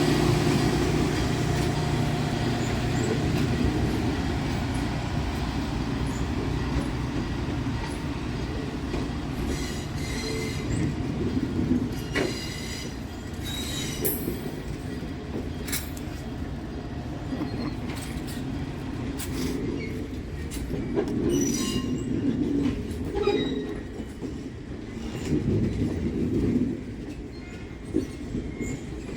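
Train cars rolling past with a low rumble that is loudest at the start and gradually eases. From about ten seconds in, the wheels clack over rail joints, with brief high squeals now and then.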